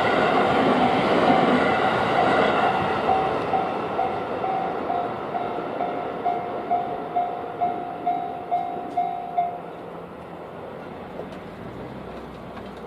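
A train passing over a level crossing, its rumble fading away, while the crossing's electronic warning bell rings about twice a second and stops about three-quarters of the way through.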